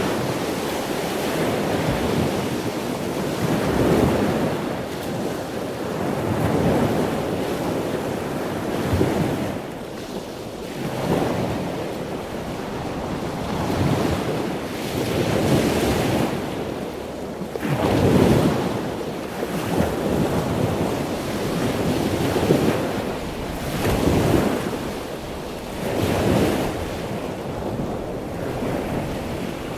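Wind and sea noise, a rushing that swells and fades every couple of seconds, with wind buffeting the microphone.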